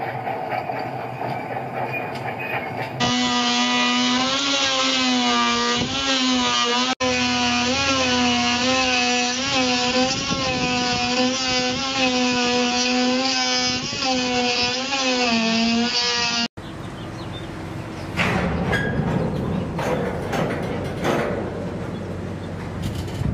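Electric power tool running with a loud, steady whine, its pitch dipping briefly again and again as it bites into the work. It cuts in about three seconds in and stops abruptly near sixteen seconds, with rougher work noise and a few knocks around it.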